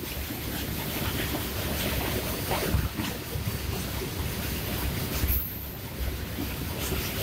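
Freight train of loaded open coal wagons rolling slowly past, a steady rumble of steel wheels on rail with a few brief clanks.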